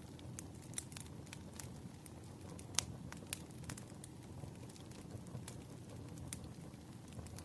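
Wood fire crackling: irregular sharp pops and snaps of varying strength, one louder pop about three seconds in, over a low steady rumble of the burning logs.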